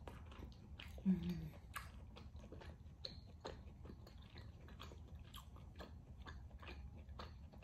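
Close-up mouth sounds of chewing rare beef tenderloin: a run of small, irregular wet clicks and smacks.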